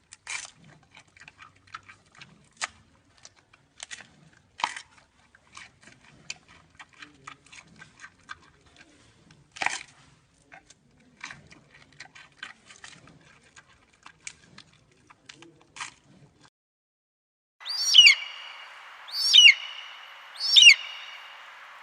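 Sparse, irregular light clicks and taps, then, after a short pause, a bird calling over and over, one loud call with a falling pitch about every second and a half.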